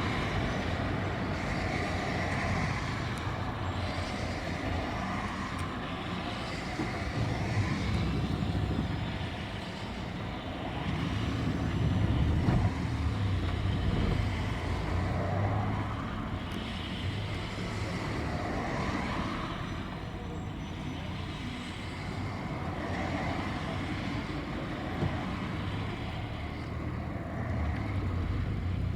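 City bus running, heard from inside the passenger cabin: a continuous engine and road drone that swells about twelve seconds in.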